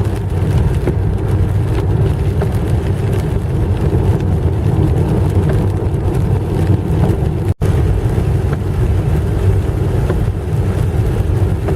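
Steady low rumble of a car driving on a wet road, heard from inside the cabin in heavy rain. The sound cuts out for an instant about seven and a half seconds in.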